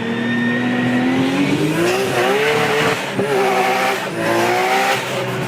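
Big-turbo Nissan Skyline engine revving hard under acceleration. Its pitch climbs, then drops and climbs again at gear changes about three and five seconds in, with tyres squealing.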